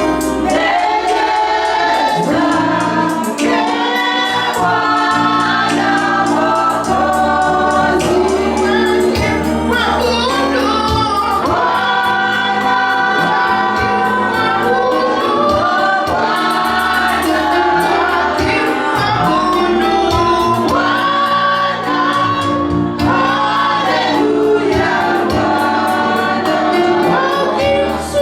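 Gospel worship music: a choir singing with instrumental backing, with sustained bass notes and a steady beat.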